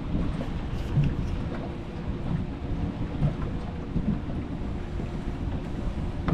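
Wind buffeting the microphone in a low rumble, with a small outboard motor idling faintly underneath and a few soft thumps.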